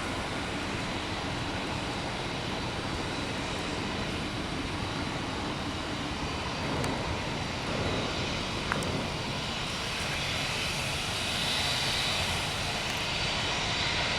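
Aircraft engines running: a steady rushing noise that grows louder and brighter over the last few seconds.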